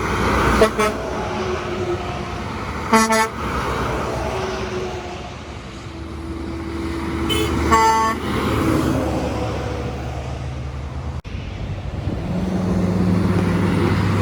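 Semi-truck air horns sounding a few short blasts over passing road traffic, with a truck engine's drone building near the end.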